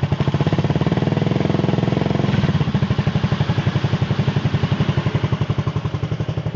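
Yamaha Xeon 125 scooter's single-cylinder engine running at low revs through a Nob1 aftermarket exhaust, a steady, even train of exhaust pulses.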